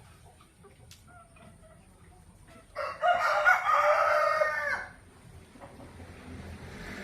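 A rooster crowing once, a loud call of about two seconds starting about three seconds in and dropping in pitch as it ends, with faint chicken clucking before it.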